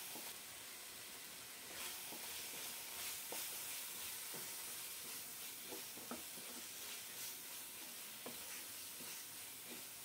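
Onion-tomato masala paste sizzling faintly in oil in a pan. From about two seconds in, a spatula stirs and scrapes it in short, irregular strokes.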